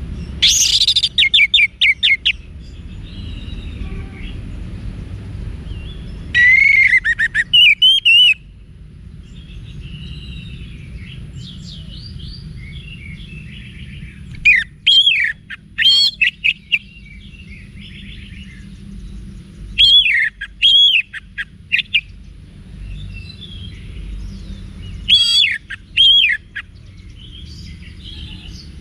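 Orange-headed thrush singing: loud, ringing, sweeping phrases come about every five or six seconds, with softer, quieter warbling in between, over a steady low rumble.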